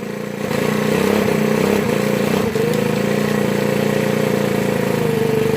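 Ryobi 4-cycle leaf blower's small four-stroke engine speeding up on the throttle about half a second in, then running steadily at high speed with a brief waver about halfway through. This engine dies whenever it is given gas.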